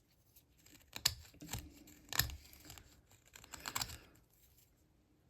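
Carving knife taking short slicing cuts in basswood: a series of small dry snaps and scrapes as thin shavings come off, smoothing out saw marks. About five sharp cracks, the loudest about two seconds in.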